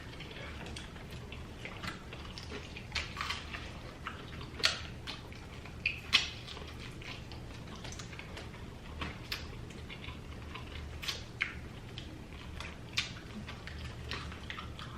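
Wet, irregular mouth sounds of people eating chicken wings: chewing and lip-smacking, heard as scattered short clicks over a steady low hum.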